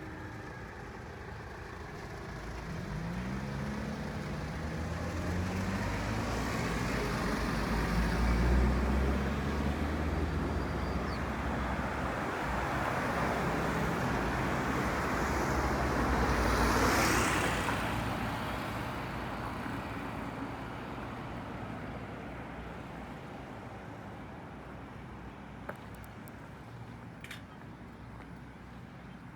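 Road traffic: motor vehicles passing by, swelling as they come close about a quarter of the way in and again, loudest, just past halfway, then fading away.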